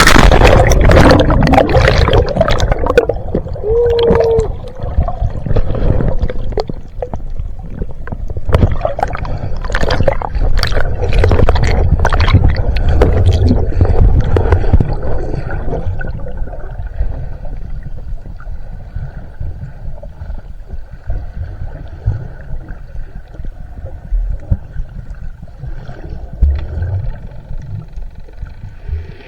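Water splashing and bubbling around snorkelers, loudest at the start and again through the middle. It then settles into a quieter, steady wash with a faint hum.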